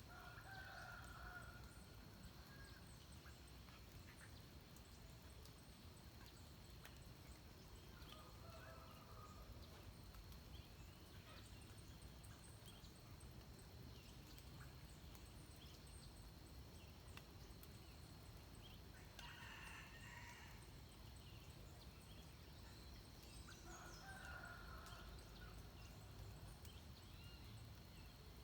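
Faint dawn soundscape in a mountain forest. Four short bird calls come several seconds apart, with a few faint higher chirps, over a low steady rumble and a thin steady high tone.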